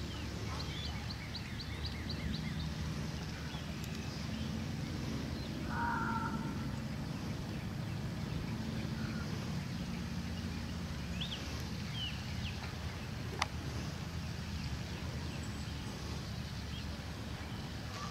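Outdoor ambience: small birds chirping and trilling now and then over a low steady hum, with one sharp click about two-thirds of the way through.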